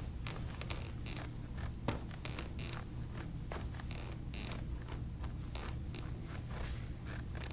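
Rustling, creaking and small scraping clicks of a person turning over onto his stomach on a padded treatment table, over a steady low hum.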